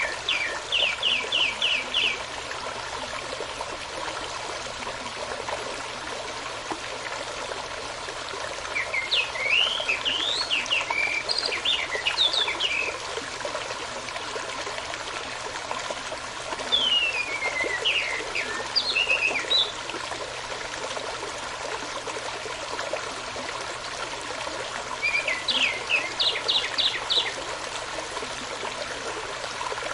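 Steady running water of a stream, with birdsong over it in four short phrases of quick repeated notes and gliding whistles, spaced several seconds apart.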